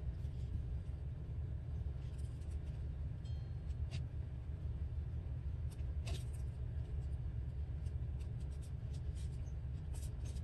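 A steady low rumble throughout, with faint, scattered rustles and light taps of paper being handled and pressed down, two slightly louder ones around the fourth and sixth seconds.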